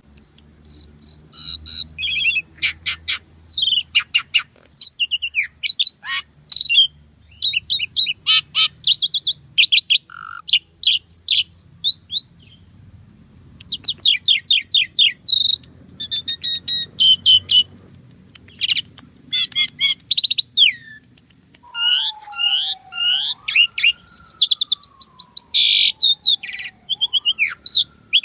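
Asian pied starling singing a fast, varied chattering song of clicks, trills and whistled notes, rich in learned phrases. From about two-thirds of the way in, a slow gliding whistle falls and rises twice beneath the chatter.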